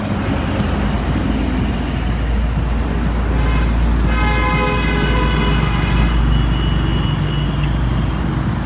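Road traffic noise with a heavy low rumble, and a vehicle horn sounding steadily for about three seconds in the middle.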